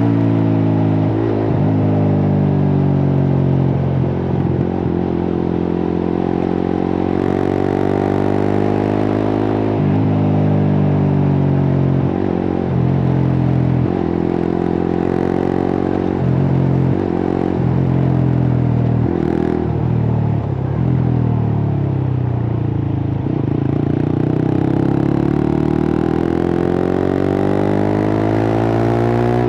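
Suzuki GSX-R150's single-cylinder engine through a cut-open exhaust, its loud, raw note rising and falling over and over as the bike is ridden, with a long climb in pitch near the end.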